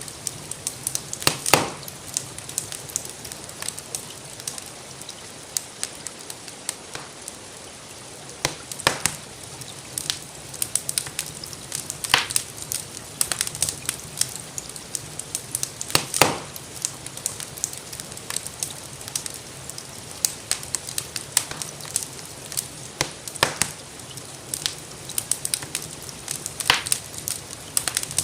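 Wood fire crackling in a fireplace: irregular sharp pops and a few louder snaps, over a steady soft hiss of falling rain.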